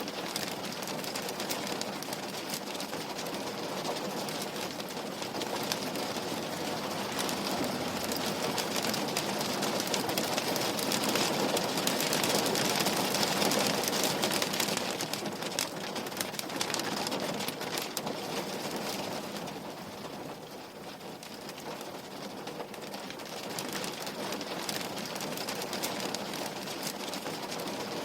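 Rain on a window pane: a steady hiss thick with the taps of separate drops. It swells louder midway, then eases for a few seconds before picking up again.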